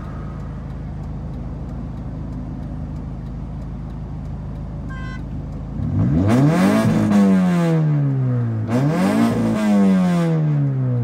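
Car engine idling steadily, then revved twice: each rev climbs quickly and winds back down over a couple of seconds. A short beep sounds about five seconds in.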